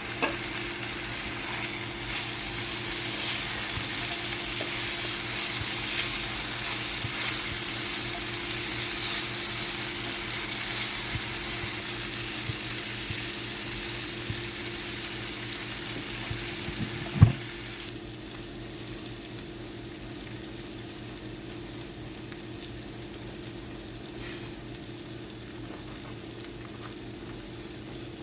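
Food sizzling as it fries in a hot pan. About seventeen seconds in there is one sharp knock, and then the sizzle drops to a much quieter hiss. A faint steady low hum runs underneath.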